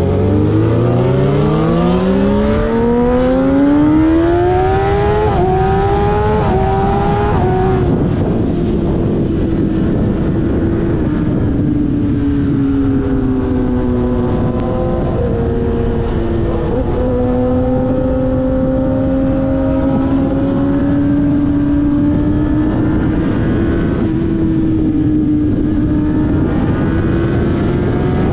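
Sportbike engine accelerating hard, its pitch climbing through a couple of quick upshifts over the first seven seconds or so, then holding a steady cruising note that drifts slightly up and down, with a constant rush of wind and road noise underneath.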